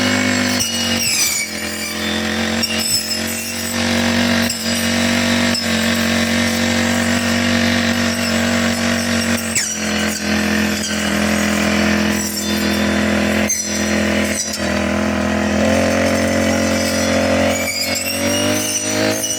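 Four-stroke brush cutter engine running steadily while cutting grass, with short knocks here and there and the pitch rising near the end.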